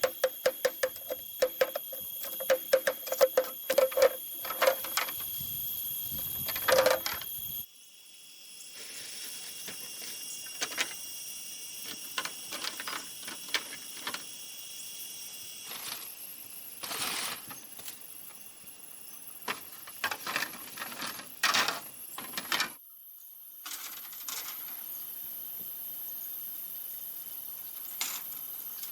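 Bamboo being struck with a hand tool: a fast, even run of sharp, ringing knocks, about four a second, for the first seven seconds or so, then scattered single knocks. A steady high buzz of forest insects runs underneath.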